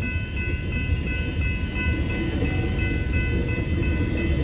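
X'Trapolis electric train passing through a level crossing, a steady low rumble, while the crossing's electronic bells ring on in a steady high repeating tone.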